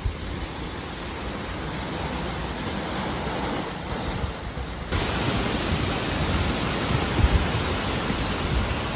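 Heavy hurricane rain and gusting wind, a steady rushing noise that grows suddenly louder about five seconds in.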